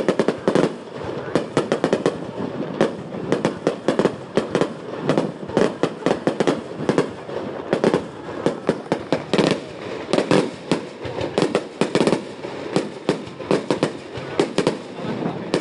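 Fireworks display: a dense, continuous barrage of bangs and crackles from aerial shells rising and bursting, several a second with no pause.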